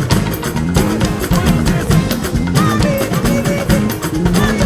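Live gospel band music with drums and guitar playing a steady beat.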